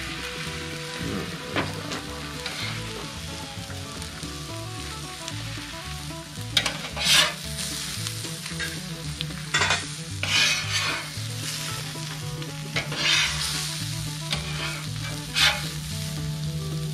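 Food frying in a hot pan with a steady sizzle, broken by several short scrapes of a spatula stirring and turning it.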